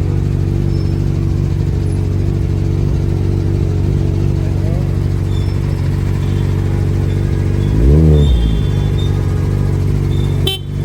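Kawasaki Ninja superbike with an aftermarket exhaust idling steadily. The rider gives one quick rev about eight seconds in, and there is a brief sharp click near the end.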